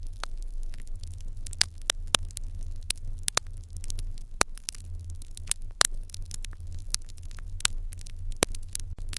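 Wood fire in an irori hearth crackling, with irregular sharp pops, a few of them loud, over a steady low rumble.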